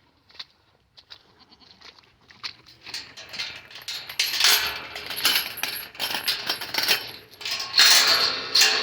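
Goats bleating, starting about three seconds in, over rustling and clinking.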